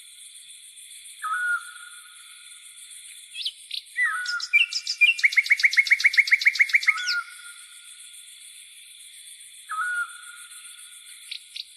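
Birds calling over a steady high insect chirring: a short call about a second in, then a loud fast trill of about eight notes a second near the middle, and another short call near the end.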